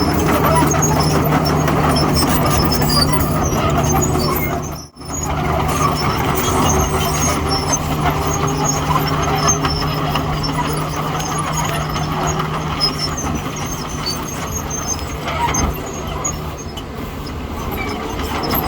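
Heavy diesel earthmoving machinery, a bulldozer or dump truck, running steadily with a constant engine drone and scattered metallic squeaks and clanks. The sound cuts out for an instant about five seconds in.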